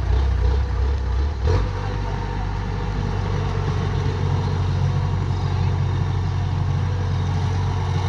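Kubota DC-105X combine harvester's diesel engine running steadily. There is a brief knock about one and a half seconds in, after which the engine note shifts and holds steady.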